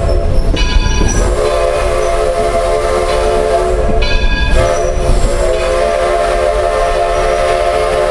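Steam locomotive whistle sounding in long blasts of several pitches at once, broken off briefly about half a second in and again about four seconds in, over the low rumble of the train rolling along.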